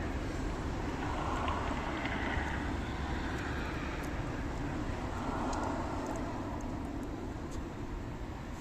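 Steady low rumbling background noise that swells gently twice, of the kind distant road traffic makes.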